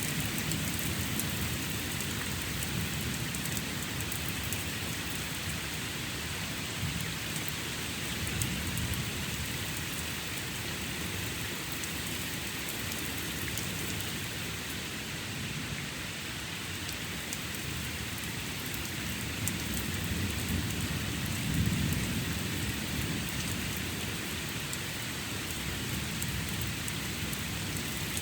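Steady rain falling during a thunderstorm, with low rolling thunder rumbling underneath; the loudest rumble swells about three quarters of the way through.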